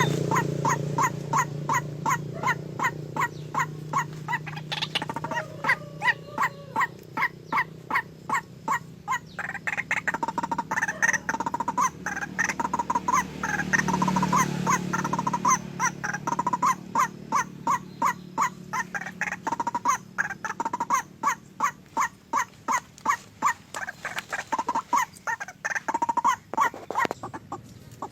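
A bird calling over and over in short, evenly spaced calls, about two to three a second.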